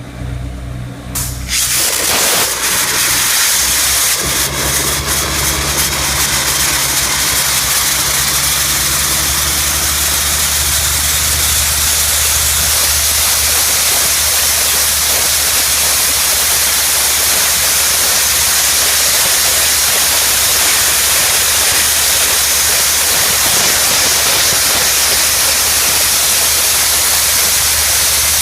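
Wet abrasive blaster spraying a water-and-sand stream onto concrete: a loud steady hiss that starts about two seconds in, over the steady low drone of the machine's engine running.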